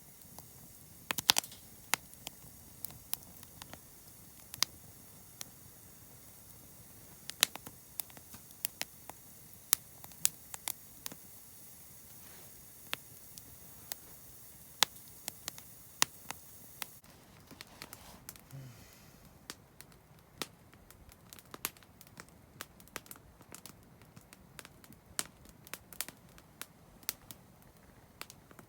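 Wood campfire crackling, with sharp irregular pops and snaps over a low hiss.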